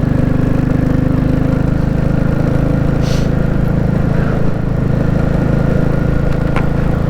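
Royal Enfield Classic 350 single-cylinder engine running at a steady speed while being ridden, with a short hiss about three seconds in.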